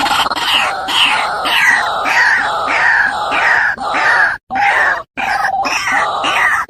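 A bird giving harsh, descending cries over and over, nearly two a second, broken twice by brief silences.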